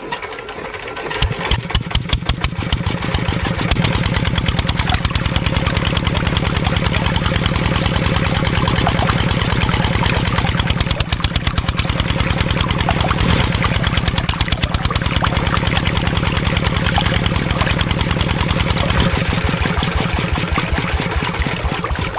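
A small engine starts about a second in and runs steadily with a fast, even beat, then slows near the end.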